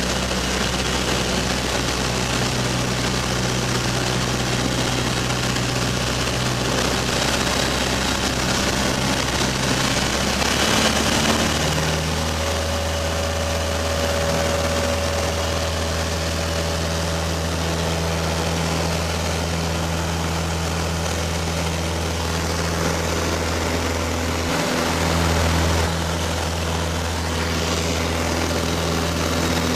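Light propeller plane's piston engine running steadily, with a constant propeller drone. The engine note drops to a lower pitch about eleven seconds in.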